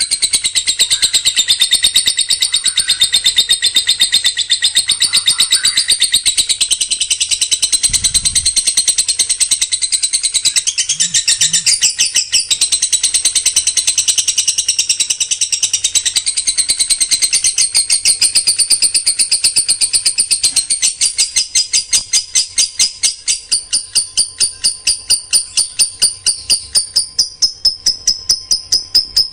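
A songbird singing a dense, rapid-fire run of high, chattering notes. About two-thirds of the way through, it settles into one note repeated evenly, about four times a second.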